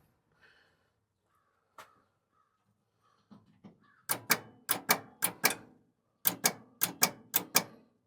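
Starter solenoid clicking rapidly, about four or five sharp clicks a second in two runs, as the key is bumped and the starter does not crank: a fault in the starter circuit, which the owner traces to a melted connector at the starter.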